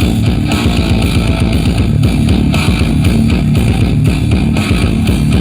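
Loud music with heavy bass and guitar, played over a large festival sound system.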